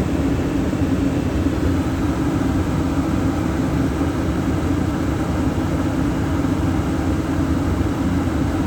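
Standby generator's engine running steadily at constant speed, with a steady low hum that does not change.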